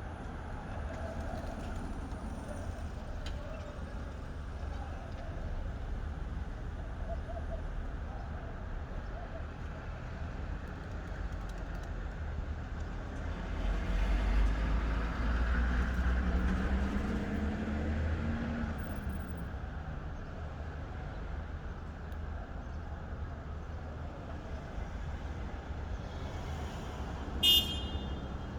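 Road traffic: a steady low rumble, with a vehicle passing about halfway through, its engine pitch rising and then falling. Near the end a car horn gives one short toot.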